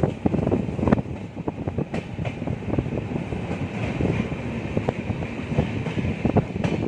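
Passenger express train running along the track, heard from on board: a steady rumble of wheels on rail with many irregular knocks, clatters and rattles of the coach.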